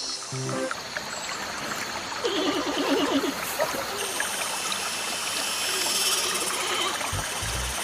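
Running water, like a small stream, with a short pitched animal call about two to three seconds in.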